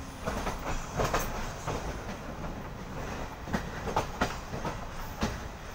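Passenger train running along the track, heard at an open door: a steady rumble with the wheels knocking irregularly over the rail joints.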